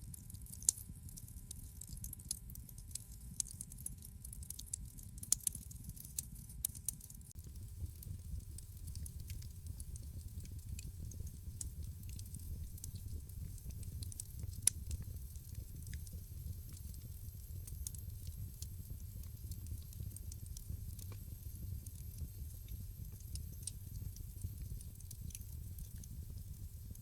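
Wood fire in a fireplace crackling: scattered sharp pops and snaps, thickest in the first few seconds with one loud pop mid-way, over a steady low rumble of the flames.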